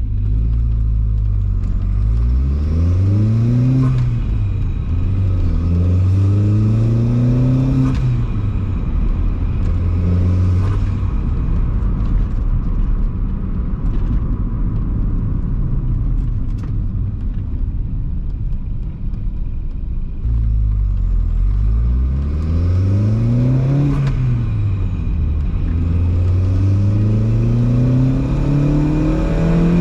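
Volkswagen 1.8T turbocharged four-cylinder engine, swapped into an MK3, accelerating through the gears. The engine note climbs and drops at each upshift, two gears in a row, then runs steadier before a second run of climbing pulls and upshifts.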